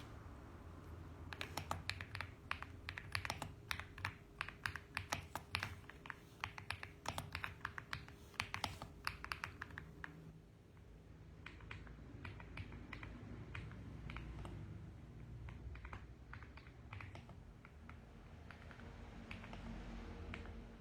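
Typing on a mechanical keyboard: quick runs of sharp keystrokes, a brief pause about halfway, then softer keystrokes.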